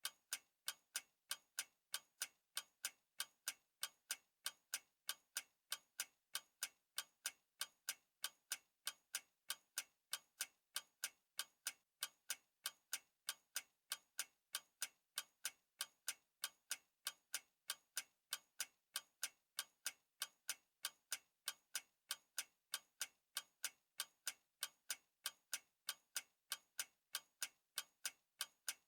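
Clock ticking: sharp, evenly spaced ticks, a little over two a second, with nothing else heard.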